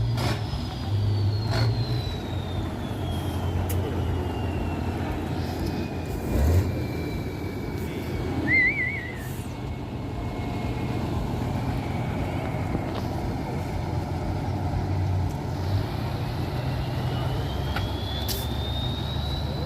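Tatra truck-trial truck's diesel engine running under varying load, with a high whine that slowly falls in pitch and rises again near the end. A few short knocks and clanks are heard along the way.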